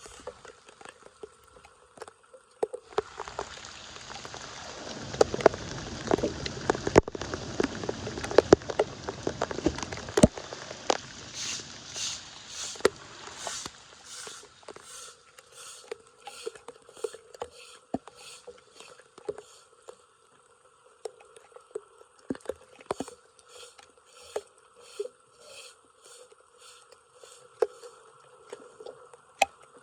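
Flood water splashing and rushing at a storm drain, with many sharp clicks and knocks of debris from about three seconds in. Later it turns to a softer rhythmic swishing about twice a second.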